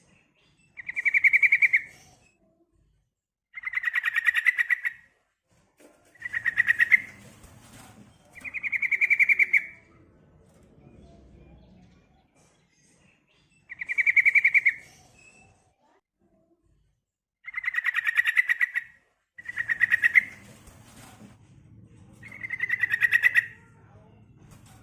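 Sooty-headed bulbul (trucukan) calling: eight short, fast chattering phrases, each about a second long, separated by pauses. It is a female's call, used as a lure to set males singing.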